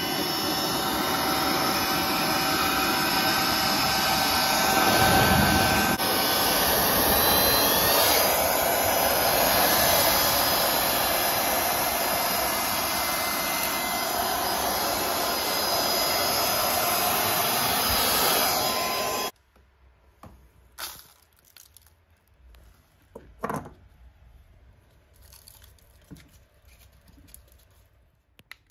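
FIERCEVAC 2-in-1 cordless air duster and vacuum running, a steady whoosh of air with a motor whine whose pitch shifts about eight seconds in. It cuts off suddenly about nineteen seconds in, leaving a few faint clicks and knocks.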